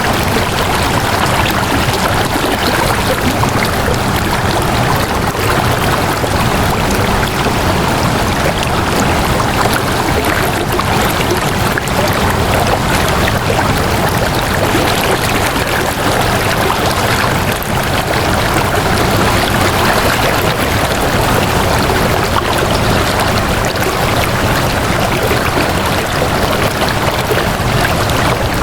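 Flowing water, a steady unbroken rush of running water with no changes or separate events.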